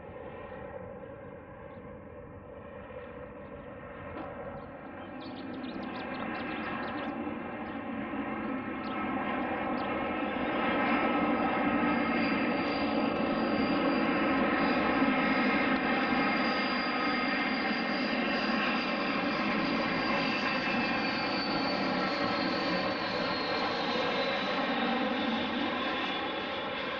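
Fixed-wing aircraft engine noise building up over several seconds and then holding loud and steady, a stack of even engine tones with a high whine that slides down in pitch near the end.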